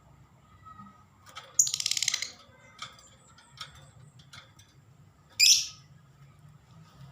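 Lovebird calling while practising its song: a loud harsh, rapid chatter about a second and a half in, a few short chirps, then a single loud shrill call dropping in pitch near the end.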